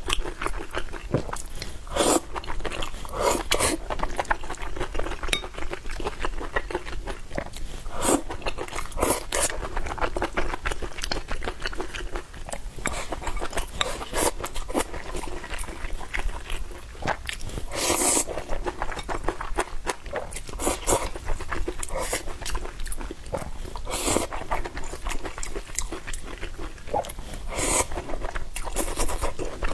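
A person eating close to the microphone, chewing noodles and meat, with many short sharp smacks and clicks from the mouth.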